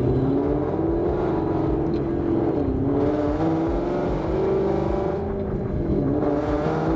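Supercharged Ford Mustang GT V8 heard from inside the cabin while driving, its engine pitch rising and falling several times as it accelerates and eases off.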